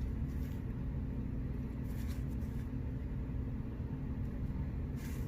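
A steady low background hum, with a few faint, brief rustles and flicks of trading cards being sorted through by hand, about two seconds in and again near the end.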